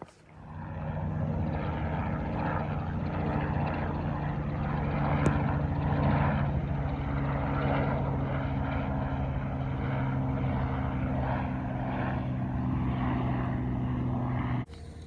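A boat's motor running steadily at constant speed, a low droning hum with a rushing noise over it. It comes up within the first second and cuts off suddenly near the end.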